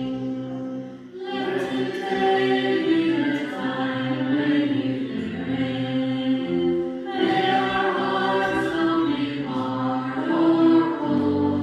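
Church choir singing in phrases of held notes, with a short breath between phrases about a second in.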